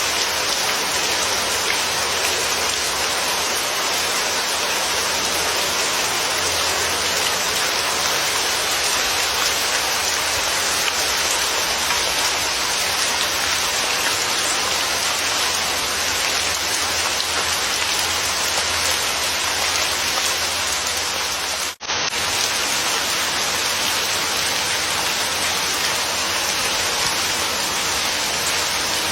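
Steady, dense rain falling as an even hiss, with a split-second dropout about two-thirds of the way through before it resumes unchanged.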